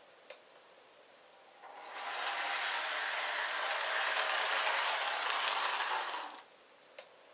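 Lionel Missouri Pacific GP-7 O-gauge model diesel locomotive running on track: its motor and gears whir with fine clicking from the wheels, rising about a second and a half in, holding for about four and a half seconds, then dying away. A single sharp click comes shortly before it and another after it.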